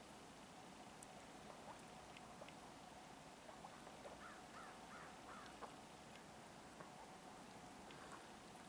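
Faint bird calls over a near-quiet outdoor background, with a short run of harsh calls about four to five seconds in.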